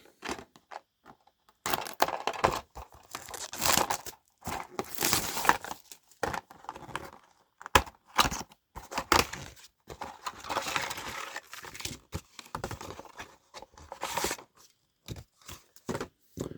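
A cardboard miniatures box being opened and its contents handled: irregular tearing and crinkling rustles with sharp clicks, broken by short pauses.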